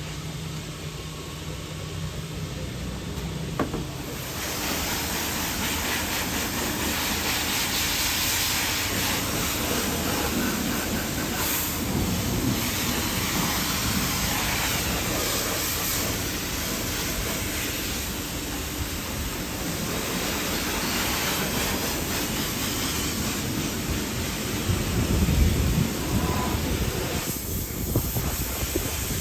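Water spraying from a hose, a steady hiss that starts about four seconds in and grows louder for a moment near the end. A low steady hum comes before it.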